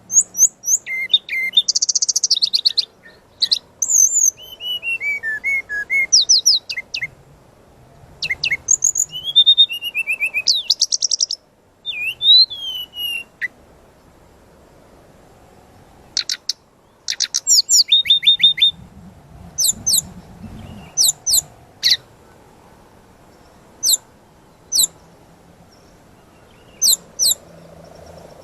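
Brown-chested jungle flycatcher (sikatan rimba dada coklat) singing a varied, high-pitched song of rapid chirps, trills and short falling whistles. About halfway through there is a pause, then a fast run of notes, and toward the end only single sharp chips spaced a second or so apart.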